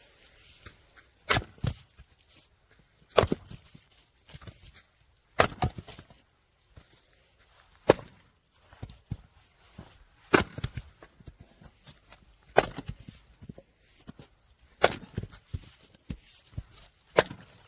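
Firewood being split: eight sharp chopping strikes at a steady pace of about one every two seconds, each followed by a few lighter knocks of wood cracking apart and pieces falling.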